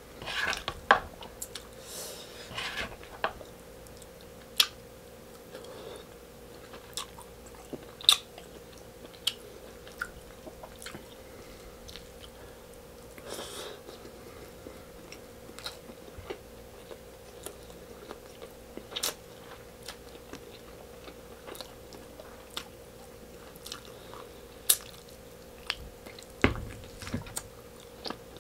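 Close-miked chewing and biting of stewed beef rib and rice eaten by hand, with sharp mouth smacks and clicks every few seconds, over a faint steady hum.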